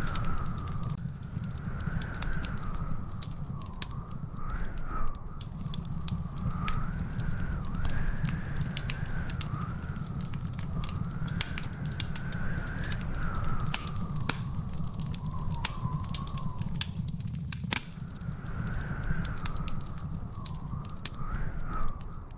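Wood fire in a fireplace crackling, with frequent sharp pops over a steady low rumble. A faint wavering whistle drifts up and down in pitch behind it.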